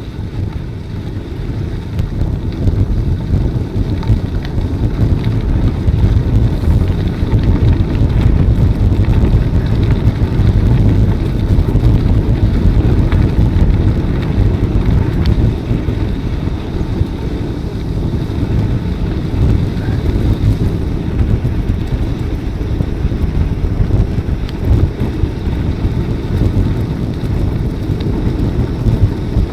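Wind buffeting the microphone of a camera carried on a moving bicycle: a steady low rumble that rises a little from about two seconds in.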